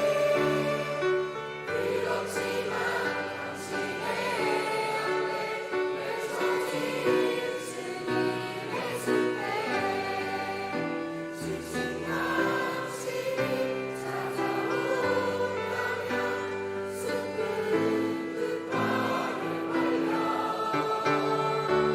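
A church youth choir singing a Christian worship song together over instrumental accompaniment of held chords and bass notes.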